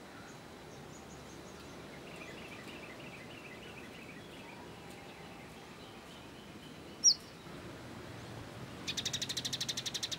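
Small songbirds calling over a steady background hiss. A soft series of twittering notes comes early, then one short, loud, sharp chirp about seven seconds in. A fast, even, rattling trill follows near the end.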